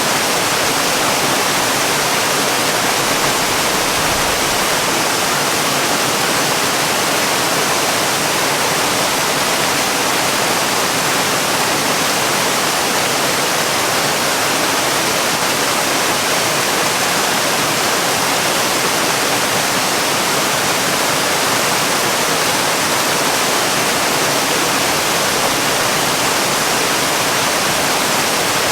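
Waterfall: water falling in a steady, unbroken rush, strongest in the hiss and spray.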